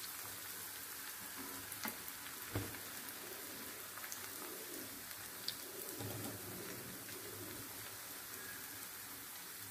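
Breadcrumb-coated paneer fingers sizzling steadily in hot oil in a shallow pan, with a few small crackles and a soft knock about two and a half seconds in.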